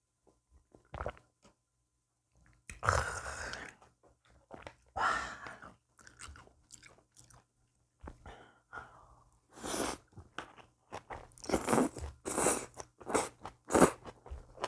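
Close-miked eating: chewing and crunching of food in irregular bites, quiet for the first two seconds, with a burst about three seconds in and the densest, loudest crunching between about eleven and fourteen seconds.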